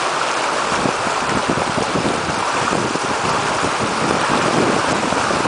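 Floodwater rushing and splashing, with wind buffeting the microphone.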